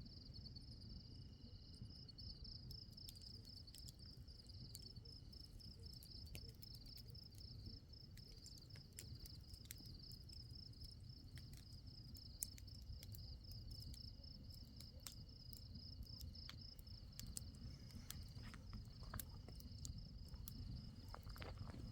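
Crickets chirping steadily in a fast pulsing trill, with scattered faint clicks.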